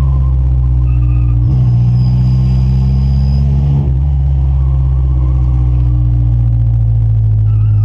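Honda Civic EF sedan's engine heard from inside the cabin while driving, loud and steady. Its note breaks and changes twice, about a second and a half in and again near four seconds in, as gears are changed.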